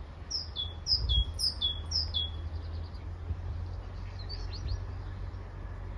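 A songbird singing a phrase of four clear whistled notes, each sliding downward, about half a second apart. A few softer chirps follow about four and a half seconds in, over a steady low rumble.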